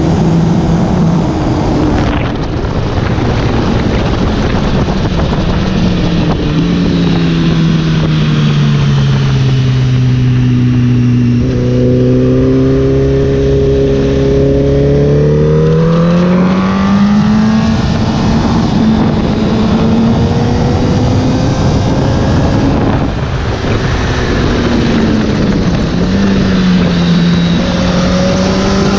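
Honda sport motorcycle's engine heard from an onboard camera at track speed, under heavy wind rush. The engine note sinks steadily as the rider rolls off into a corner, holds low for a few seconds, then climbs again as the throttle opens on the exit, with another dip and rise near the end.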